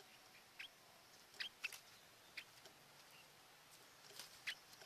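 Faint, short, high chirps from small birds, about eight of them scattered irregularly, with a quick cluster about one and a half seconds in and another near the end.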